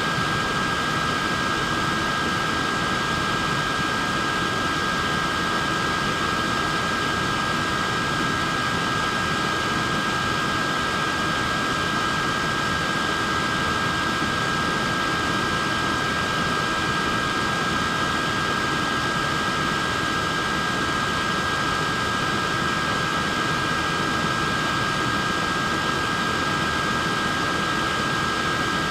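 Portable neck fan running steadily: an even rush of air with a steady high whine from its small motor and blades.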